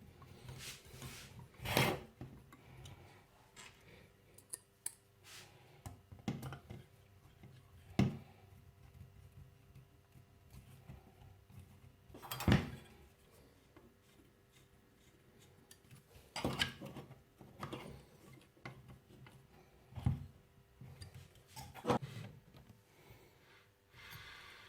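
Metal tools and turbine parts being handled: scattered clicks, knocks and rubbing as bolts are driven into the model jet turbine's casing. Near the end comes a short soft whir as the turbine's rotor spins on its new bearings.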